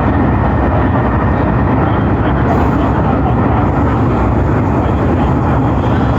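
MTR East Rail Line MLR electric multiple unit running along the line, a loud steady rumble of wheels on rail and running gear.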